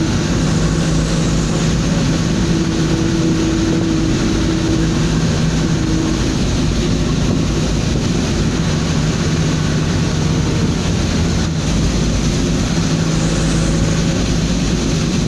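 Steady drone of a moving truck: the engine's low hum over even road noise, the hum's pitch holding level and fading in and out.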